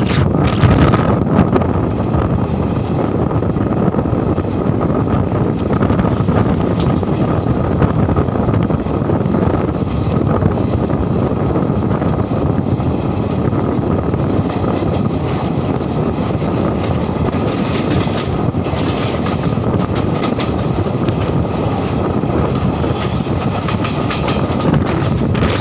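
Indian Railways passenger train running along the track: a steady, loud rumble of wheels on rails with scattered clicks and a faint steady whine.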